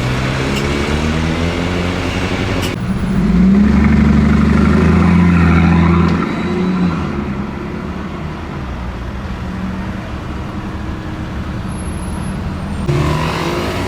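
Brabus-tuned Mercedes-Benz G-Wagon engine accelerating on the road. The engine note swells loud about three seconds in, holds for about three seconds, then fades as the vehicle moves away, with abrupt changes where shots are cut together.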